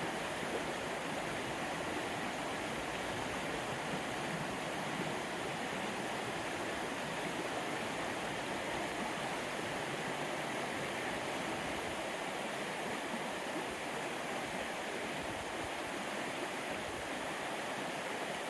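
Small upland stream rushing and babbling over rocks, a steady even rush of water.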